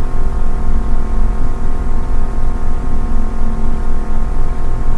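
A loud, steady hum: many unchanging pitches held together over a deep, wavering rumble.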